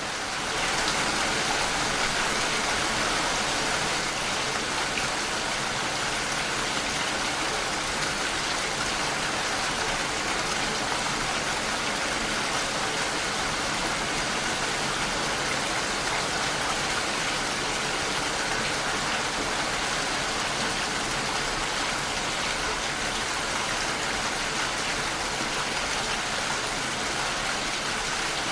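Steady rain falling against a window pane, a dense even hiss; it grows a little louder about a second in and then holds steady.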